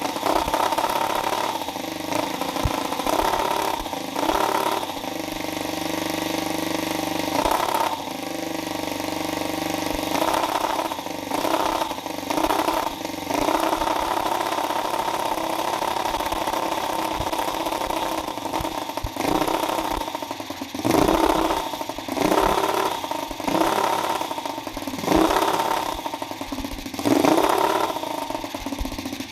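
A homemade radial engine built from single-cylinder engines runs at a steady idle, then is revved in several short bursts about two seconds apart in the second half.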